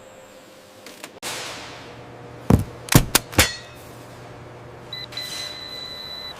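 Packaging machinery: a hiss starts about a second in over a low hum, then come four sharp clacks. A steady electronic beep sounds for the last second and a half.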